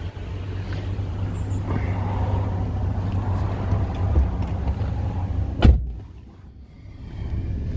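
2012 Nissan Titan pickup's engine idling with a steady low rumble. A single sharp knock comes about five and a half seconds in, and the sound drops away briefly after it.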